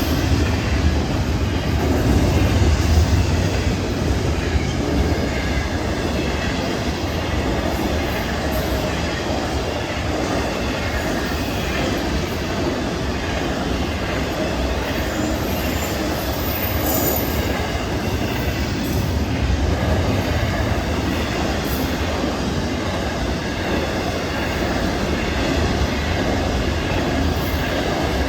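A long freight train's cars rolling past at speed, with a steady rumble of wheels on the rails.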